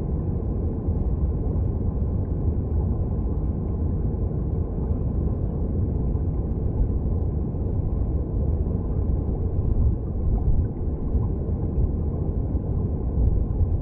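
Stream water heard underwater: a steady, deep rumble of flowing current with little high sound.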